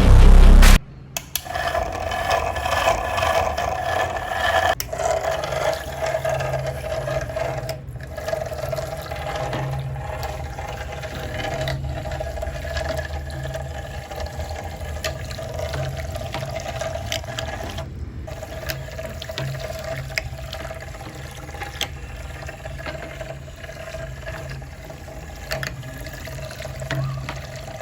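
Small battery-powered DC motor of a homemade model boat whirring steadily as it drives the boat through a pulley belt, with water splashing and churning. The sound drops out briefly twice.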